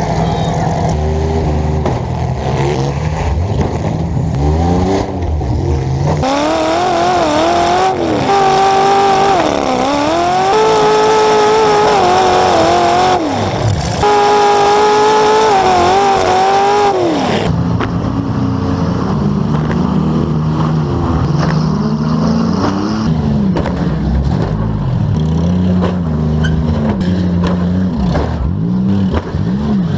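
Demolition derby car engines with open exhaust pipes, revving up and easing off in turns. About six seconds in, an engine is held at high revs for roughly ten seconds, with a brief drop partway through, then falls back to lower, repeatedly rising and falling revs.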